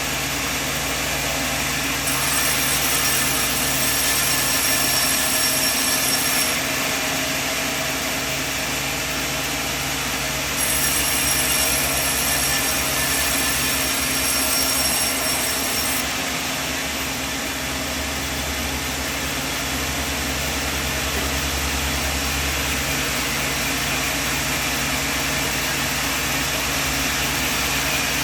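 Sawmill machinery running with a steady mechanical drone and low hum. Twice it grows a little louder and adds a thin high whine for a few seconds, a few seconds in and again around the middle.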